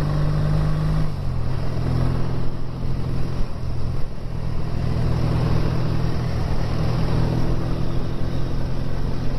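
BSA A10 650 parallel-twin motorcycle engine running steadily under way. Its note drops a little about a second in, then holds.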